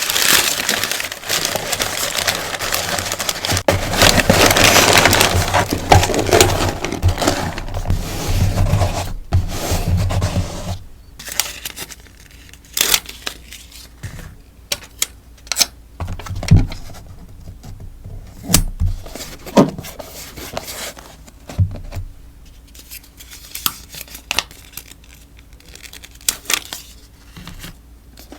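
Plastic packaging and sticker sheets rustling and crinkling as stickers are packed, loud and dense for about the first ten seconds. After that come quieter handling sounds: scattered sharp taps and short rustles.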